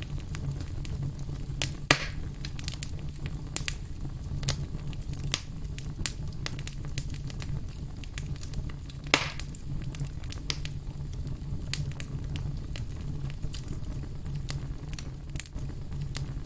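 Firewood logs burning, crackling with frequent sharp clicks and pops over a steady low rumble; two louder pops come about two seconds in and about nine seconds in.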